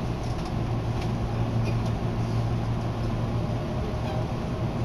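Steady low hum and noise inside a Hankyu Senri Line train car standing at a station platform.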